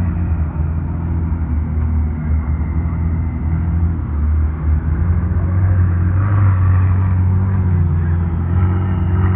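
McLaren 600LT's twin-turbo V8 running at low revs as the car crawls past, a steady low drone that grows a little louder about six seconds in.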